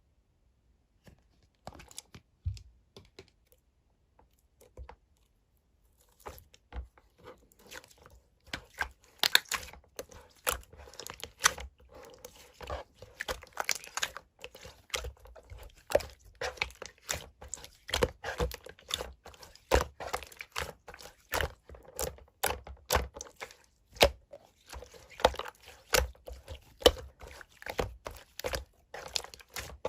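Slime being pressed and squished by hand, a run of sticky clicks and small pops, a few scattered at first and then close together from about six seconds in.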